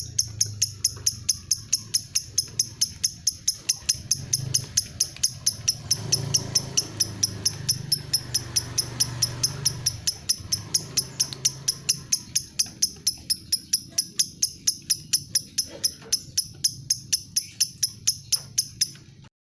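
Lovebird's 'ngetik' call: a rapid, even run of short high-pitched ticks, about five a second, cutting off suddenly near the end.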